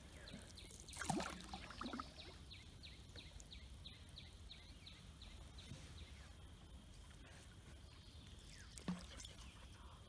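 A bird calling a long, steady series of short falling notes, about four a second. A few soft knocks and splashes come about one to two seconds in, and another knock near the end.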